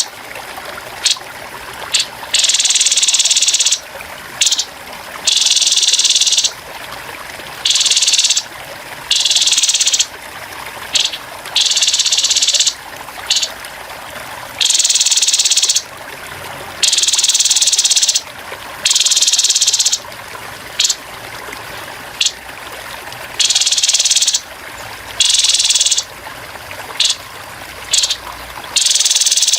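Grey-headed babbler giving harsh, high-pitched rattling bursts over and over, some about a second long and others short and clipped. Steady trickling water runs underneath.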